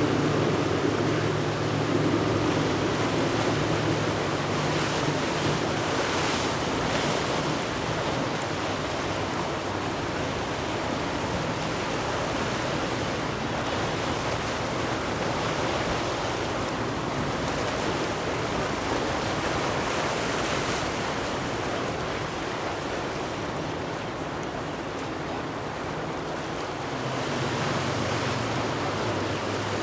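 Surf and wind noise, with the steady low drone of boat engines in the first few seconds and again near the end.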